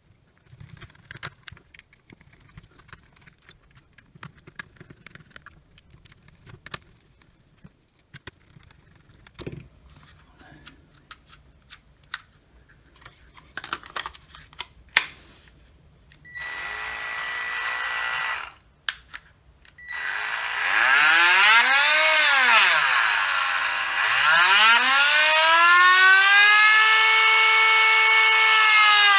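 Small clicks and knocks of handling and screwing the casing together, then a Milwaukee cordless rotary tool's motor running up to speed with a rising whine. Its speed is swept up and down, then up again and held at a high pitch: the repaired tool runs and its speed control works.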